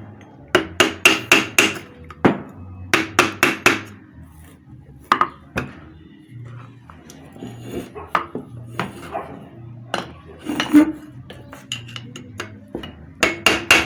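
Hammer tapping on the metal end cover of a centrifugal water pump motor to loosen and work it off, in quick runs of about five ringing blows with a few quieter knocks and clatter between.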